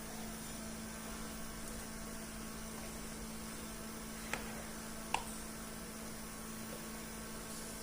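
A steady electrical hum with an even hiss, and two short sharp clicks a little under a second apart just past the middle.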